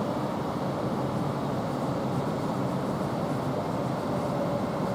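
Avanti West Coast Class 807 electric train passing through the station, a steady running noise that holds at an even level with a faint steady hum under it.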